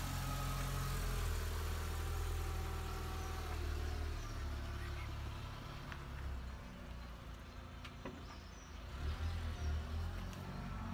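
Volkswagen New Beetle's engine running low and steady as the car pulls off a driveway and drives away slowly.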